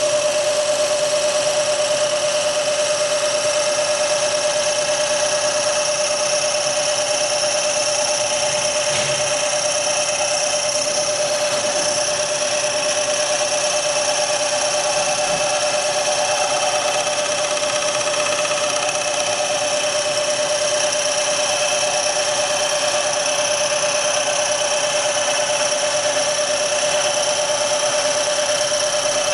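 Machine-shop boring machine running steadily with a constant whine, its boring tool cutting out a throttle-body bore on a Porsche 911 mechanical fuel injection unit.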